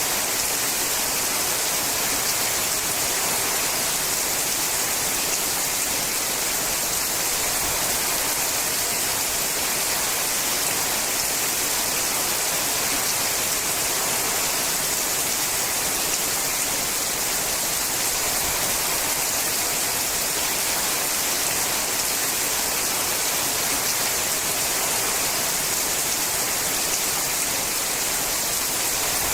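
Steady heavy rain drumming on a sheet-metal roof: an even, unbroken hiss, strongest in the high range.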